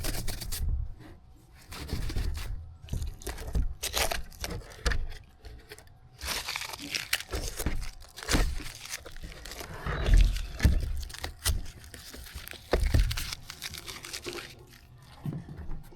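Hands rubbing and handling a plastic tail-light lens: irregular scrubbing and crinkling strokes, with a few sharp knocks.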